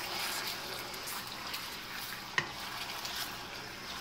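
Chicken pieces sizzling in hot oil in a nonstick wok over high heat while being stirred with a silicone spatula, a steady frying hiss with one sharp tap about two and a half seconds in.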